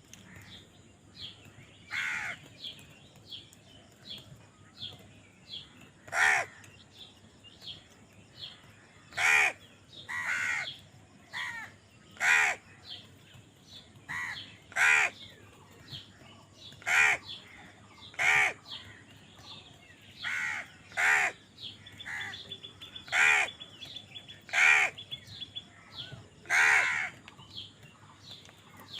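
Crows cawing over and over, loud harsh caws coming every one to three seconds, with faint high chirps between them.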